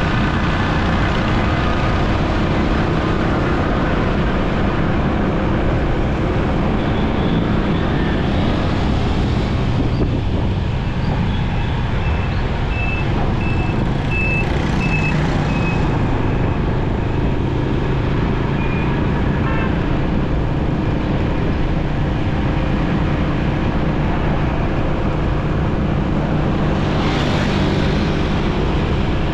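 Motorcycle riding through busy city traffic: a steady mix of its engine, other vehicles' engines and road noise. About halfway through, a run of about six short, evenly spaced high beeps sounds from nearby traffic.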